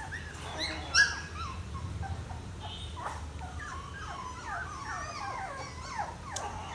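Labrador retriever puppies whimpering: a string of short, high whines that fall in pitch, about three a second, with a sharp click about a second in.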